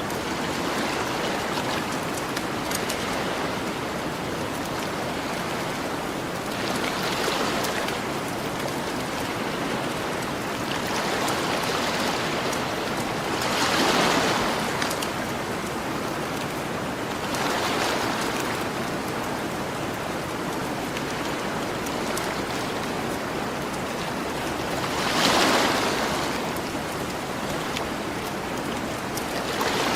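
Gentle ocean waves washing onto a shore, a steady surf hiss that swells and ebbs about five times, loudest about halfway through and near the end. Faint campfire crackles tick over the surf.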